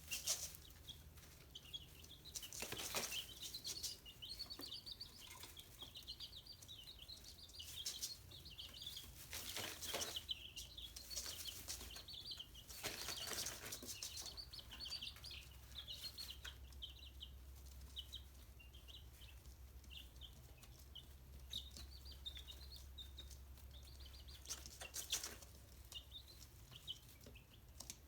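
Chicks peeping over and over in short high chirps, with a few brief rustles or scuffles among them.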